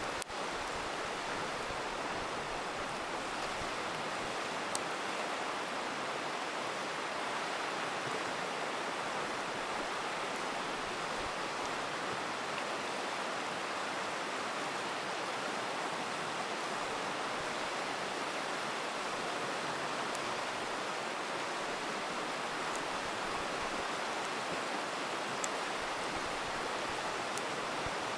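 River rushing steadily, with a few sharp pops from a crackling campfire scattered through it.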